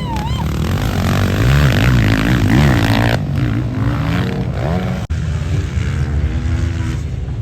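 Several motocross bikes racing on the track, their engines revving up and down in overlapping rising and falling pitches. The sound drops out for an instant about five seconds in.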